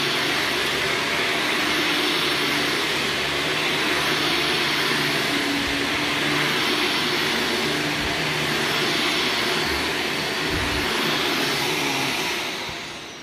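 Carpet-cleaning extraction equipment running steadily: a loud, airy suction hiss with a low hum beneath it, fading away near the end.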